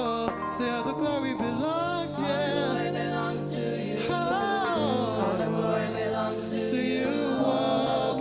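Gospel worship song being sung, with melismatic vocal lines that glide up and down over sustained instrumental accompaniment.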